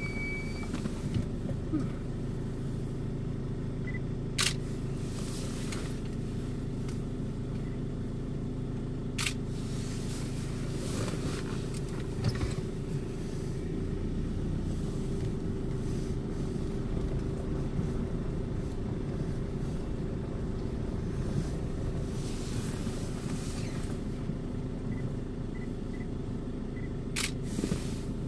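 Vehicle engine idling steadily, heard from inside the cab, with three sharp clicks scattered through.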